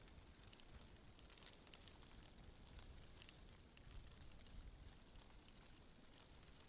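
Faint wind, a low rumble that swells a little around the middle, with scattered faint high ticks and crackles over it.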